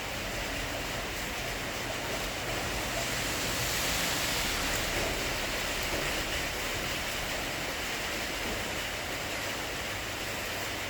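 Steady rushing noise of storm wind and rain, swelling slightly a few seconds in.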